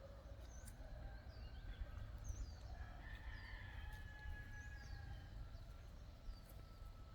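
A rooster crowing faintly in the distance, one drawn-out crow about three seconds in, with small birds chirping.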